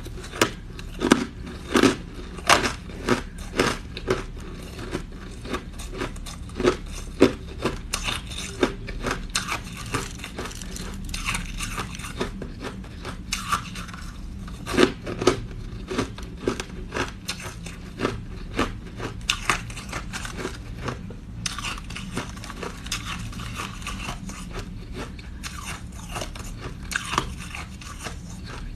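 Close-up biting and chewing of crunchy green ice: an irregular run of sharp crunches, loudest in the first few seconds and again about halfway through.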